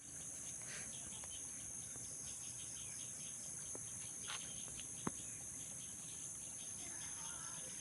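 A steady, high-pitched chorus of crickets, with a few brief sharp chirps and faint bird calls.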